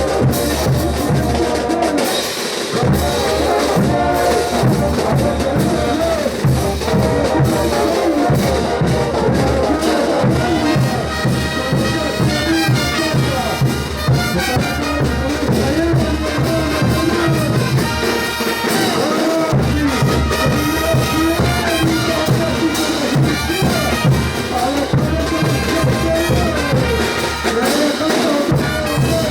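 Bolivian brass band (banda de bronces) playing ch'uta dance music: trumpets and trombones carry the melody over a steady drum beat, loud and continuous.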